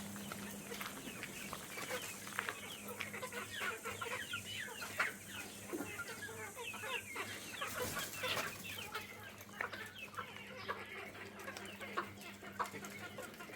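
Chickens clucking, many short calls overlapping one another throughout.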